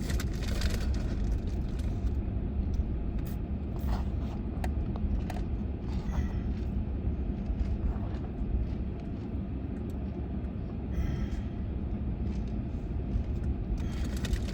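Steady low rumble of an idling vehicle, with a few short clicks and scrapes of gravel being scooped.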